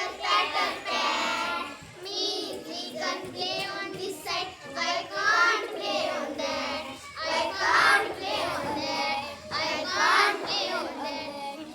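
A child singing or chanting a poem, high-pitched and unaccompanied.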